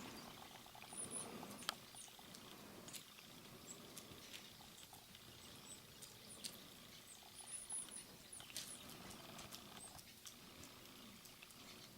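Faint, scattered sharp taps and ticks of a woodpecker pecking at sunflower seeds, with a few faint high chirps.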